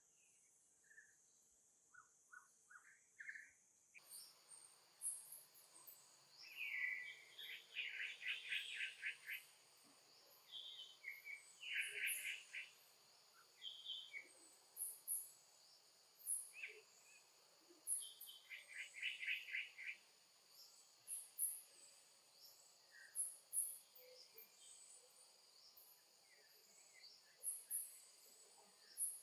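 Faint outdoor chorus: a steady high insect drone with birds calling in repeated chirps and rapid trills. A few faint rising squeaks come in the first seconds, before the drone starts.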